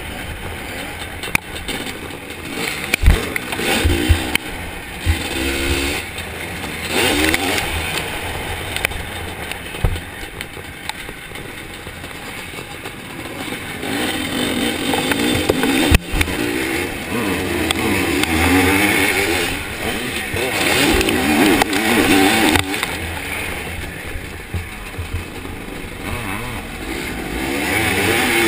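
Zabel 700 two-stroke sidecar-cross engine revving up and down repeatedly as the outfit is raced, with several sharp knocks from the machine hitting bumps.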